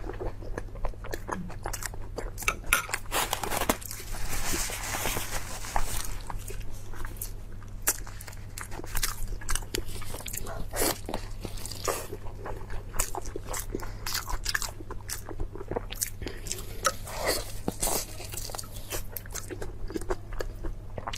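Close-up eating: biting and chewing with crunching and many sharp wet clicks, over a steady low electrical hum.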